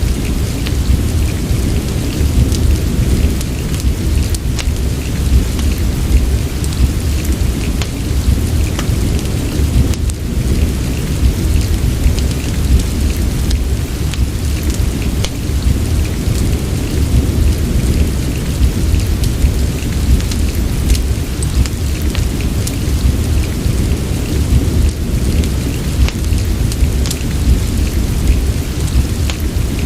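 Steady rain mixed with a fireplace. An even hiss of rain sits over a deep, steady low rumble, dotted throughout with small, sharp crackles.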